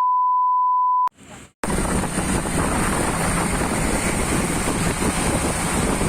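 A steady high beep tone that cuts off about a second in. After a short break, a motorcycle ride follows: wind rushing over the microphone with the bike's engine running underneath.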